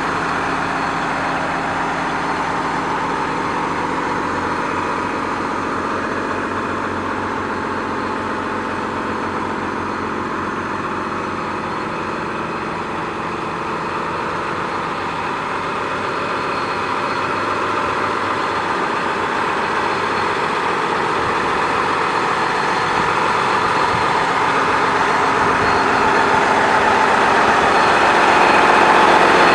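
John Deere 9460R tractor's diesel engine running steadily, growing louder over the second half.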